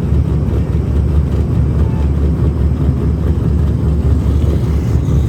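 BMW E36 drift car's engine idling: a steady low rumble.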